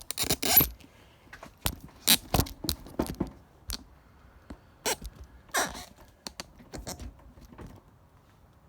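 Handling noise from a phone being repositioned on its mount: irregular scrapes, clicks and knocks, loudest in a scraping burst at the start and thinning out near the end.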